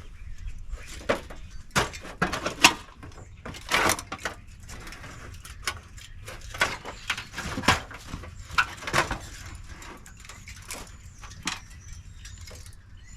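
Irregular metal knocks, clanks and rattles from an old air-conditioner condenser unit being taken apart.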